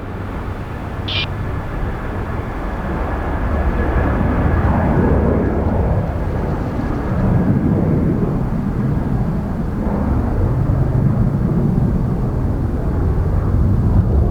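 Jet airliner engines rumbling, growing steadily louder over the seconds.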